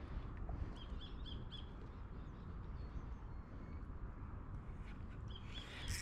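Faint short bird chirps, a few about a second in and again near the end, over a steady low outdoor rumble.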